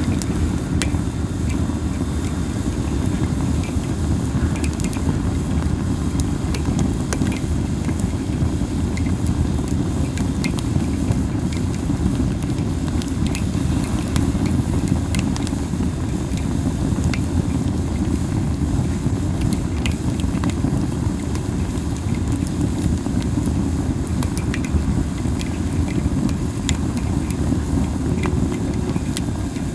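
Campfire of Japanese spindle (masaki) wood burning, with scattered sharp crackles and pops over a steady low rumble.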